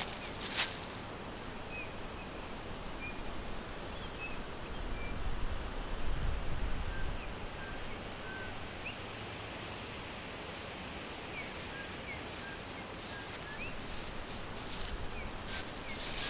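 Forest ambience: scattered faint bird chirps over a steady hiss of leaves and air, with crackly rustling near the start and toward the end, and a low rumble swelling about five to seven seconds in.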